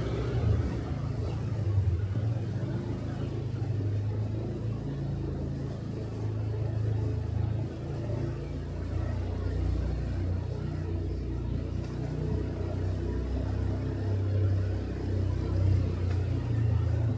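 Motorcycle engine running during a ride: a steady low hum that rises and falls a little with the throttle.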